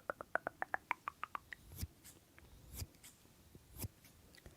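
A quick run of small sharp clicks for about a second and a half, then three louder, sharper clicks roughly a second apart.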